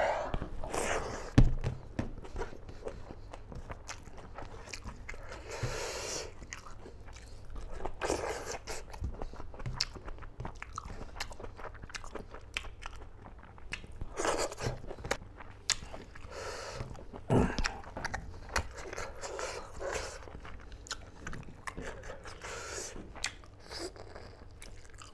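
Close-miked chewing of a handful of rice and smoked pork curry, with soft crunches and small clicks, coming and going every few seconds.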